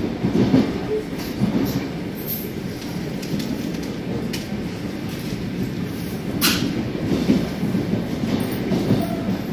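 Electric commuter train on the move, heard from inside the carriage: a steady low rumble of wheels on track, with a few sharp clicks, the clearest about two-thirds of the way through.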